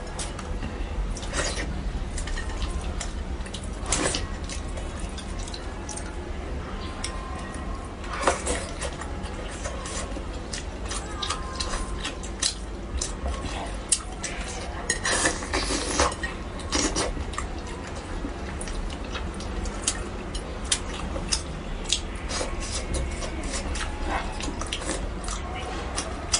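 Eating sounds of a person eating spicy braised fish: many irregular sharp clicks of utensils against dishes with wet mouth and sauce sounds, over a steady low hum.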